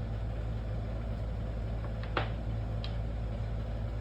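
Steady low hum, with a short scrape about two seconds in and a fainter tick just under a second later, light handling sounds while glued tiles are set down.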